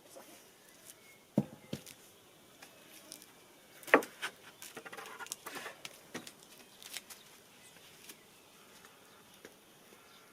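Scattered light taps and knocks with faint rustling between them; the loudest knock comes about four seconds in.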